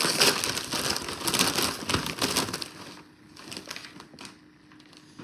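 A Lay's potato chip bag crinkling loudly as it is handled, for about the first two and a half seconds, then only faint scattered rustles.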